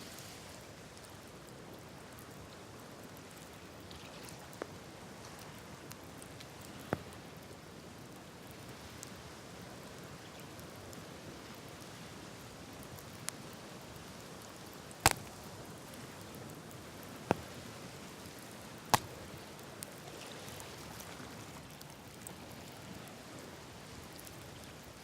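Wood fire burning in the open, crackling with a steady soft hiss and scattered sharp pops, the three loudest snaps coming in the second half.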